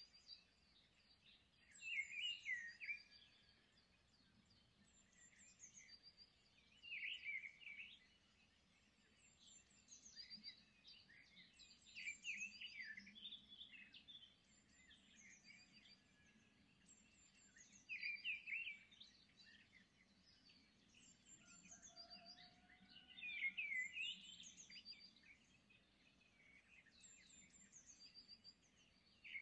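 Faint birds chirping and singing, with a short burst of song about every five seconds.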